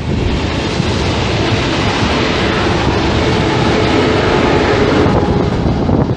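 ICE high-speed train running past on the next track, a steady loud rush of wheels on rails with clickety-clack over the rail joints; the noise falls away just at the end as its end power car goes by.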